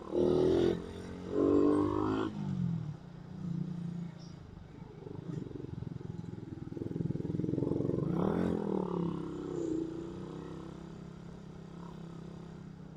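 Suzuki Raider 150 motorcycle's single-cylinder four-stroke engine running steadily under the rider on a climb. The engine note rises and then falls about eight seconds in.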